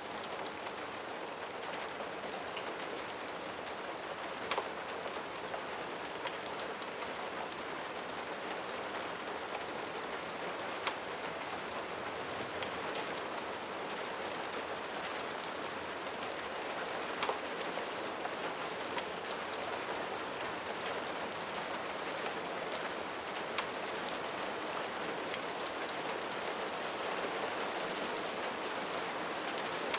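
Steady rain falling on a surface, an even hiss, with a single sharp click about every six seconds.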